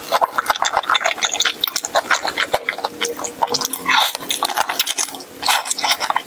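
Close-miked biting and chewing of Korean sweet and spicy fried chicken: a dense run of sharp crunches and crackles from the coated chicken.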